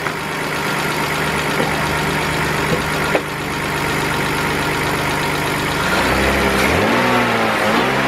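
BMW 328i engine idling steadily and evenly, its misfire cleared after the repair, then revved up and let back down twice near the end.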